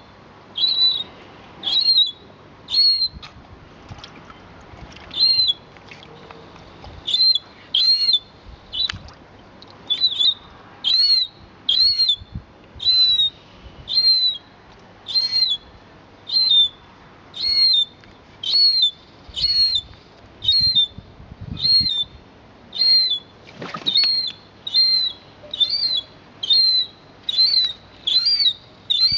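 A seagull calling over and over: short, high, arched calls about once a second, some in quick pairs.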